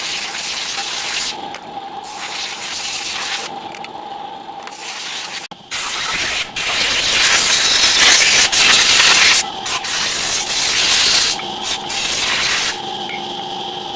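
Bursts of hissing spray that start and stop with short breaks, loudest from about halfway through.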